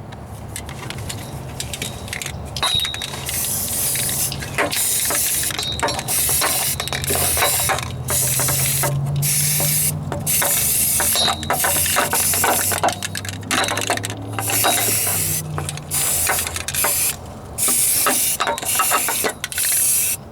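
Aerosol spray can of primer hissing in a long series of short bursts with brief pauses between them, as a coat is sprayed on. A steady low hum runs underneath.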